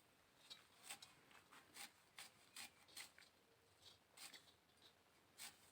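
Banana flower being sliced finely with a blade: a run of short, crisp cutting strokes, about two to three a second, faint.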